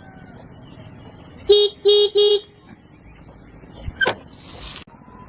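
Vehicle horn beeping three times in quick succession, steady-pitched short toots. A few seconds later there is a brief hiss of noise that cuts off suddenly.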